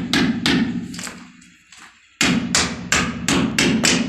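Hammer driving a nail into a masonry wall to hold a water pipe in place: quick, even blows about three a second, a pause of about a second, then another run of blows.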